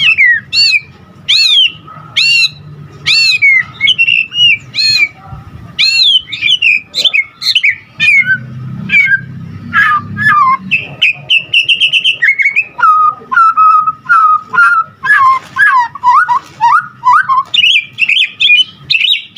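White-rumped shama (murai batu) singing loudly: a rapid, varied string of sweeping whistles that rise and fall, short repeated phrases and fast trills, with brief pauses between bursts.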